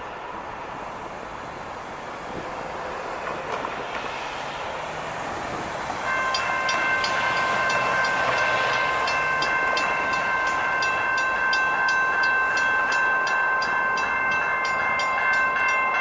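A train passing with a steady rushing rumble, then about six seconds in its multi-note horn sounds a long held chord that lasts to the end. Rapid regular clicks, about three to four a second, run alongside the horn.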